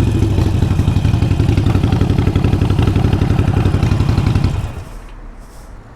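Harley-Davidson Sportster 883 Iron's air-cooled V-twin running at idle through a Vance & Hines exhaust, a steady even chug of exhaust pulses, which cuts off suddenly about four and a half seconds in as the engine is shut off.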